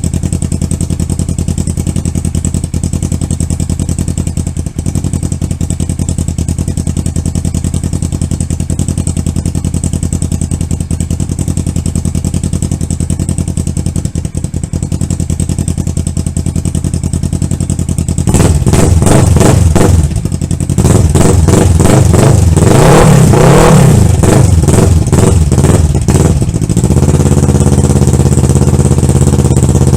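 2014 Kawasaki Ninja 650's parallel-twin engine through a custom stainless steel exhaust, idling steadily. About two-thirds of the way in it is blipped once, then revved up and down for several seconds, before settling back to idle.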